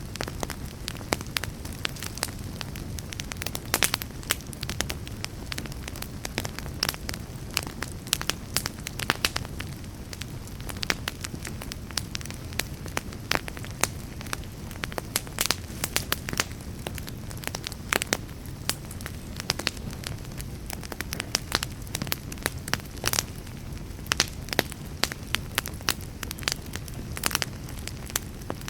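Wood fire crackling: a steady low rumble of burning with many sharp, irregular pops and snaps, several a second.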